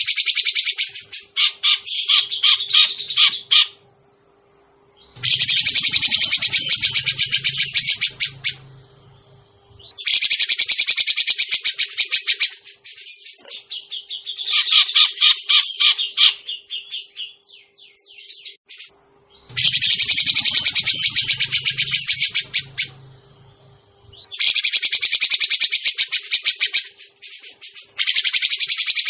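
Grey-cheeked bulbul (cucak jenggot) calling in bursts of rapid, harsh, high chattering, each a few seconds long, repeated about every four to five seconds: a lure recording used to call in wild birds of the same kind.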